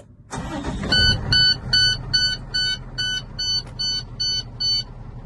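Truck's Cummins ISB 6.7 L diesel starting and settling into a steady idle, while the dashboard warning beeper sounds about ten evenly spaced high beeps, roughly two and a half a second, which stop just before the end.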